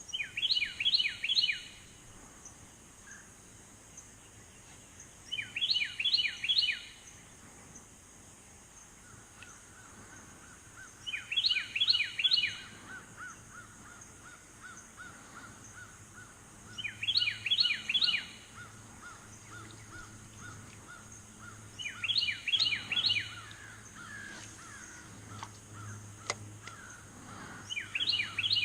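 A songbird singing over and over: each phrase is a quick run of five or six falling whistled notes, repeated about every five and a half seconds, six times in all. A steady high insect drone sits behind it, and a fainter, faster run of even chirps joins about a third of the way in.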